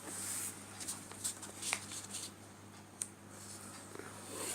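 A sheet of paper being handled and creased into a fold: soft rustling with a few brief crackles.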